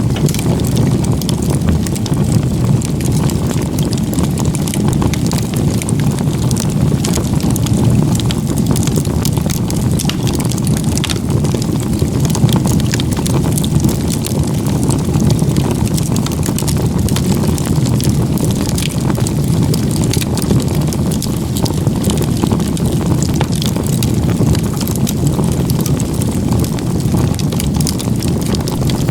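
Wood fire in a log-cabin (igeta-gumi) crib of firewood, burning strongly: a steady low rush of flames with frequent small crackles and pops.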